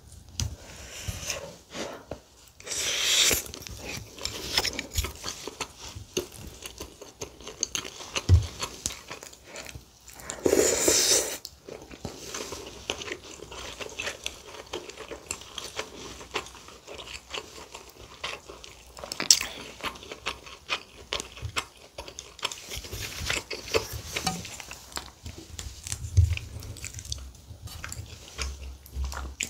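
Close-miked eating sounds: a person chewing and biting mouthfuls of rice and stewed kimchi, with small clicks of a wooden spoon and chopsticks. Two louder noisy bursts come about three and eleven seconds in.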